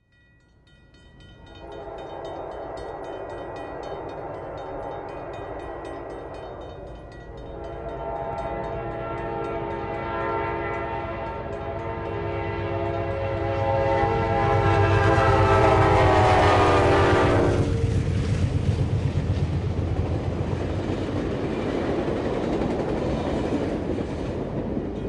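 Train horn sounding in two long blasts, the second louder and dropping a little in pitch before cutting off abruptly, followed by the steady rumble and clatter of the train passing by.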